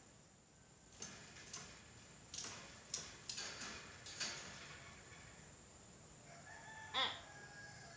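Nias hill myna calling: a scatter of faint short calls, then one louder call near the end that falls in pitch.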